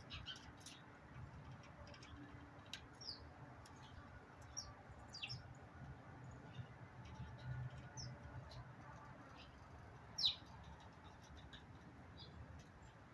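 Backyard birds chirping in short, scattered calls that slide down in pitch, with one louder chirp about ten seconds in, over a faint low background rumble.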